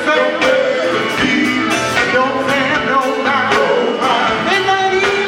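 Male gospel group singing live with instrumental backing and a steady drum beat.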